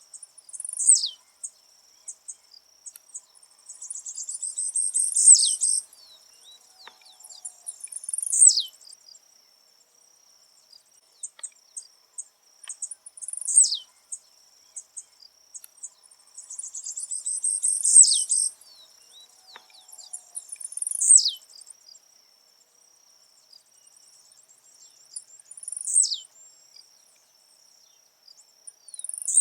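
Blue-black grassquit (tiziu) singing: a short, sharp, steeply down-slurred note repeated every few seconds, twice led in by a burst of high chattering. A thin, steady, high insect whine runs underneath.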